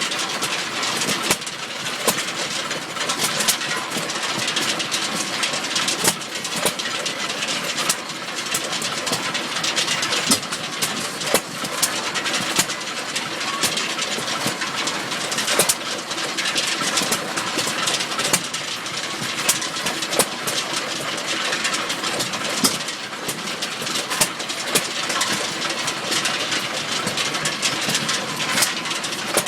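1925 Stover KA 2 hp hit-and-miss engine running, firing with a sharp pop every few seconds at irregular spacing and coasting between hits, over steady mechanical noise.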